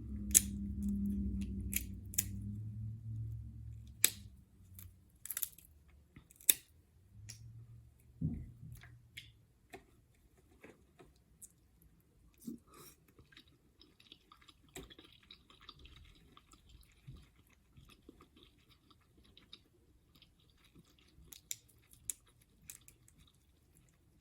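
A person chewing seafood close to the microphone, with sharp clicks and cracks scattered through. The chewing is heaviest and loudest in the first few seconds, then turns softer, with fainter clicks.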